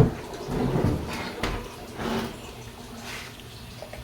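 A sharp knock, then a few short scraping and clattering noises and faint clicks: washing machine parts being handled and moved during cleaning.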